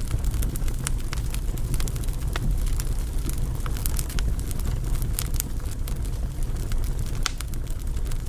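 Burning firewood crackling, with frequent sharp irregular pops over a steady low rumble.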